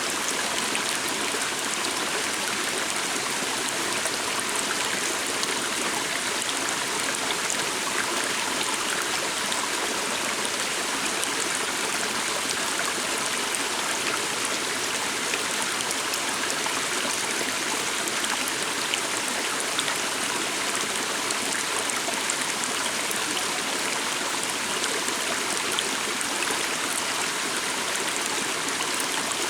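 A flowing stream: a steady rush of running water that keeps an even level throughout.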